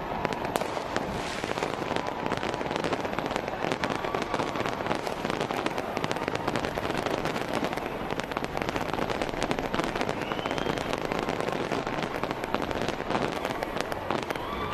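Fireworks going off in a dense, continuous crackle of many rapid small pops and bangs.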